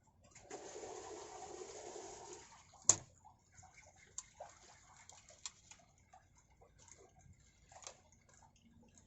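Water splashing or pouring for about two seconds, then one sharp click followed by a few faint small clicks.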